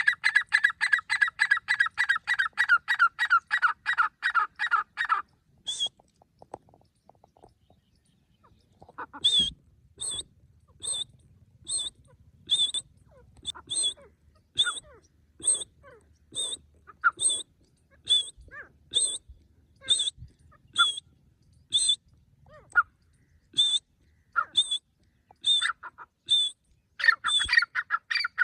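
Grey francolin calling: a fast run of repeated notes, about five a second, for the first five seconds, then after a pause a steady series of shrill high notes a little under one a second, and another fast run starting near the end.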